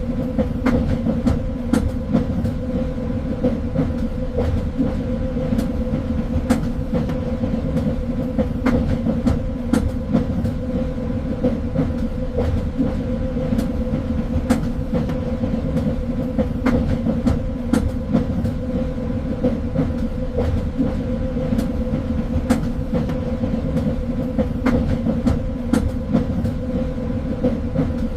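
Train running along the rails: a steady low rumble with a constant hum, broken by frequent sharp clicks and knocks from the wheels over the track.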